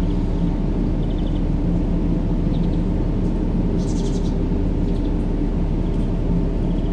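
Steady, deep rumbling white noise of a baby-sleep noise track, with a faint drone of low tones in it. Brief high chirps sound a few times over the top.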